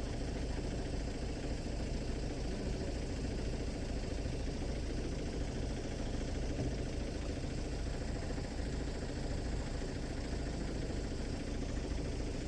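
A vehicle engine idling steadily, with a low hum.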